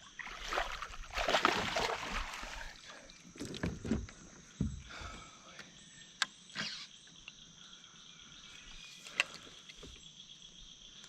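Hobie Pro Angler 360 fishing kayak moving on the water: water swishing against the hull for the first few seconds, then quieter, with two sharp clicks or knocks, one past the middle and one near the end.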